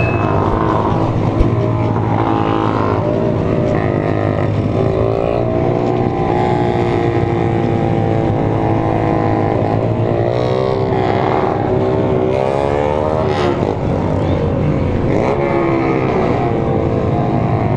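A convoy of small motorcycles riding together: a steady engine drone with several engines revving up and down around it.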